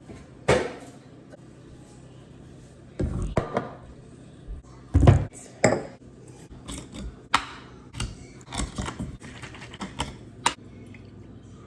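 Kitchen things being handled while coffee is made: an irregular run of clicks, knocks and clatter, with the loudest thud about five seconds in.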